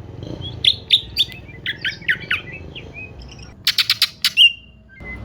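Green leafbird (cucak ijo) singing: a string of sharp, quick sliding chirps, then near the end a fast rattling run of about a dozen notes that closes on a short whistle.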